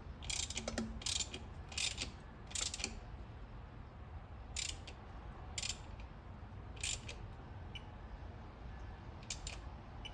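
Hand ratchet clicking in short strokes while intake plenum bolts on a 3.8L V6 are run down: four quick bursts in the first three seconds, then single strokes spaced a second or more apart.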